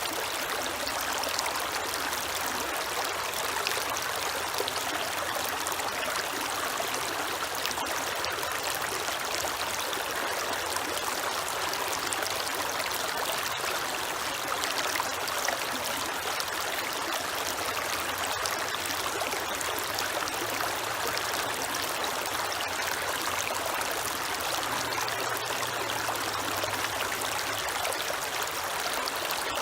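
Creek water running steadily, a constant even rush. A faint low hum joins it a little past two-thirds of the way through.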